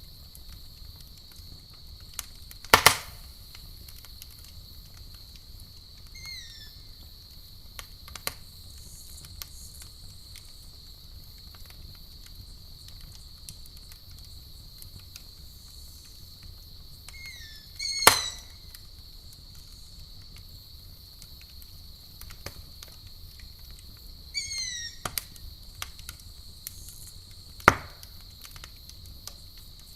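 Campfire crackling with scattered small clicks and three loud, sharp pops, over a steady high-pitched insect trill like crickets. Three brief runs of short falling chirps come through about 6, 17 and 24 seconds in.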